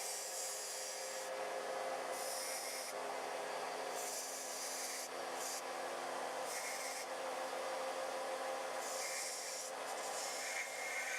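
Sealey belt sander running with a steady hum while a blade is ground against the belt in repeated passes, a high grinding hiss starting and stopping every second or so.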